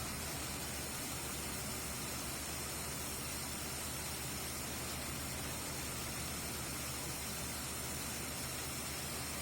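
Corn combine harvester running steadily: an even, hissing machine noise over a low engine hum.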